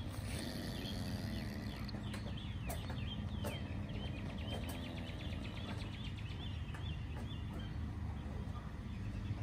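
Birds chirping in quick runs of short, high calls over a steady low rumble, with a few sharp clicks about two to three and a half seconds in.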